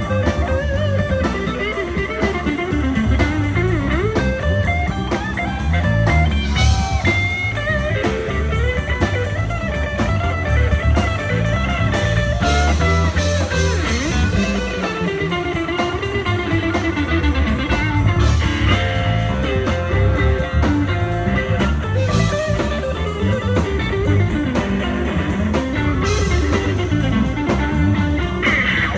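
Blues band playing, with an electric guitar lead line that bends up and down over steady bass and a regular drum beat.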